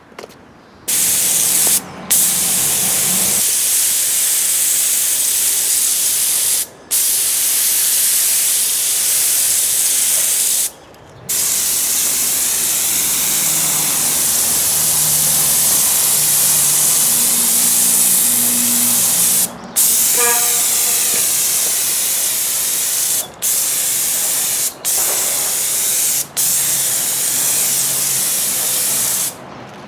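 Paint spraying in long continuous hisses, each interrupted by a brief pause as the nozzle is released, while a forged metal piece is primed and painted.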